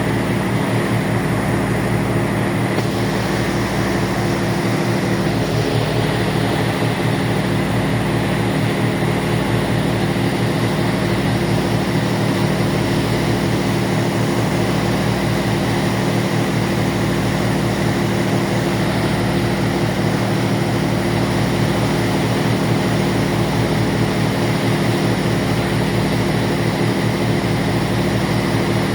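Ferry's engines droning steadily, a low pulsing rumble with a steady hum over a broad hiss of wind and water.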